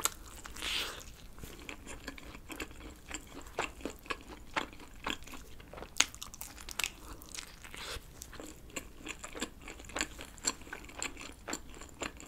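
A bite into a slice of thin-crust pepperoni pizza about half a second in, then steady chewing with many small crisp clicks and mouth smacks.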